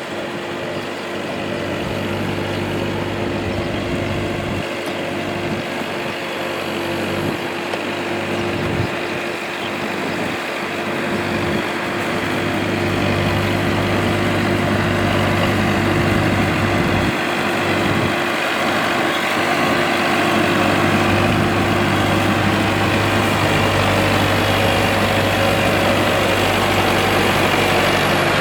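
A Kubota tractor's diesel engine running steadily, getting louder about halfway through.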